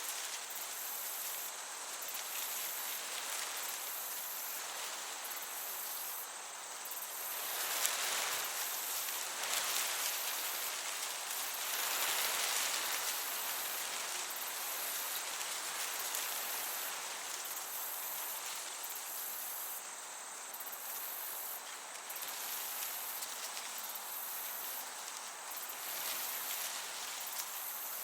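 Crickets chirping in a high, pulsing trill over the hiss of a gentle breeze, which swells about eight seconds in and again around twelve seconds.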